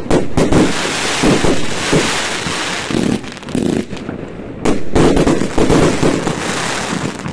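Fireworks going off: many sharp bangs over a dense crackling hiss, easing about three seconds in and swelling again about five seconds in.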